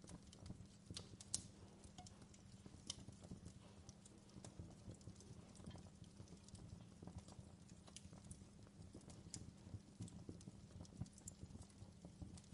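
Fireplace crackling faintly: irregular small pops and snaps over a low steady rumble, with one sharper pop a little over a second in.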